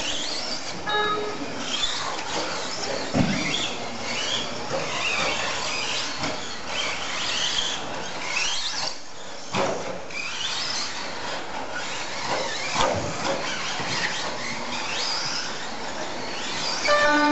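Several radio-controlled stadium trucks racing together, their motors whining up and down in pitch as they accelerate and back off. A couple of sharp thumps come through, with a short beeping tone near the end.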